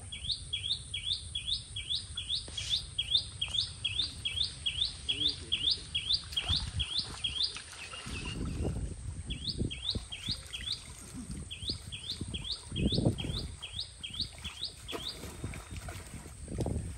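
A small bird calls in a fast series of sharp, repeated notes, about two or three a second, in three runs with short breaks. Water sloshes and splashes a few times as people wade and drag a hand net through a pond, loudest about halfway through and again near the end.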